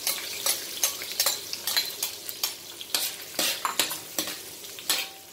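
Garlic and ginger sizzling in hot canola oil at the start of a sauté, with a utensil stirring in the pan, making many irregular sharp taps and scrapes.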